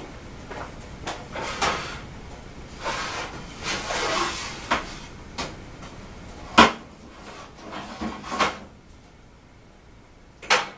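Handling noises: rustling and scraping with several knocks. The sharpest knock comes about two-thirds of the way in, and another comes just before the end, like a cupboard door or panel being shut.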